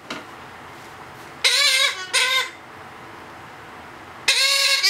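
Blue-headed parrot (Pionus) chick making loud begging calls while being hand-fed: two short calls back to back about one and a half seconds in, and another starting near the end.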